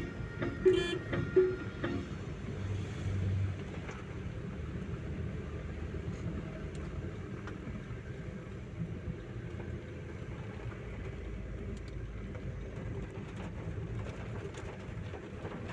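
Steady road and traffic noise from passing vehicles, with a short low horn-like tone about three seconds in.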